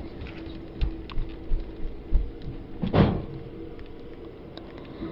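A few short knocks and thumps, the loudest about three seconds in, over a steady low hum.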